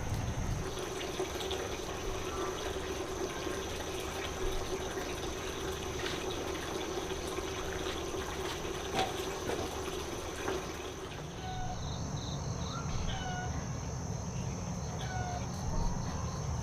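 Water running from a tap or pipe into a container, a steady splashing that stops about eleven seconds in. A steady high insect drone runs underneath, and short repeated chirps follow once the water stops.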